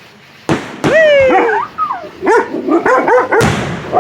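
A frightened dog yelping and barking: one long falling yelp about a second in, then a quick run of short barks. Sharp firework bangs come near the start, and a louder burst comes near the end.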